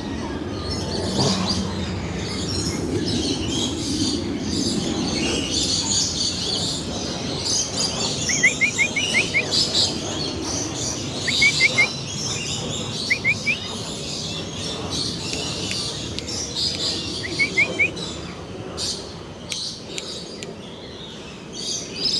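Many birds chirping and calling at once in a dense high-pitched chorus. Four times, a short run of four or five quick rising whistles stands out.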